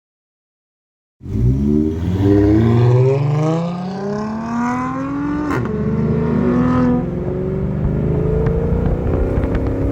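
Dodge Charger GT's 3.6-litre V6 through a straight-piped exhaust with Super 10 mufflers, accelerating hard: it cuts in about a second in, the pitch climbs steadily, drops at a gear change about five and a half seconds in, then climbs again more slowly.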